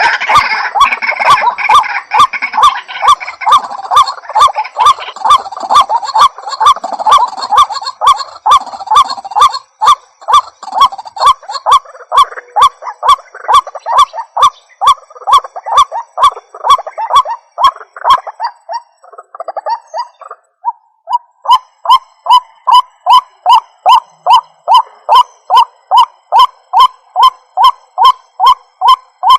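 White-breasted waterhen calling: its 'ruak' note repeated over and over, about one and a half to two a second. The notes are dense and overlapping, as from more than one bird, for the first part. After a short break about two-thirds of the way through, a single, evenly spaced series follows.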